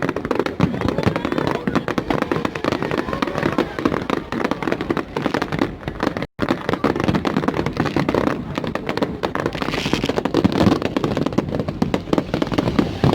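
Fireworks display with a dense run of rapid crackling and popping bursts, and crowd voices underneath. The sound cuts out for a moment about six seconds in.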